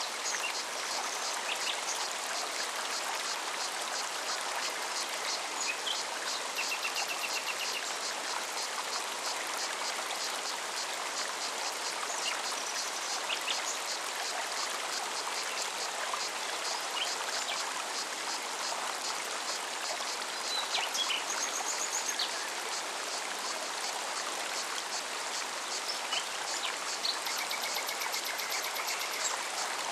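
Forest mountain stream running steadily, with cicadas singing in a fast, even pulsing. Short bird calls and brief trills break in now and then.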